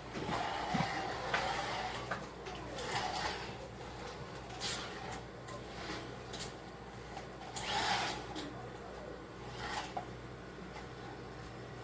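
Hands mixing water into flour and kneading dumpling dough in a bowl: irregular soft knocks and rustles every second or two, over a faint steady hum.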